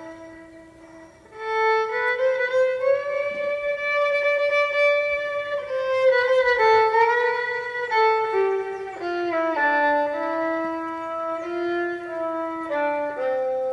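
A violin playing a slow melody alone, with long held notes and slides between pitches. It comes in quietly and swells loud about a second and a half in.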